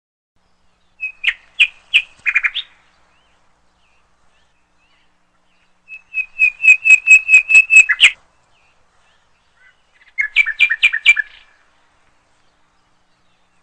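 A bird chirping in three short bursts of quick, sharp repeated notes, with silence between the bursts.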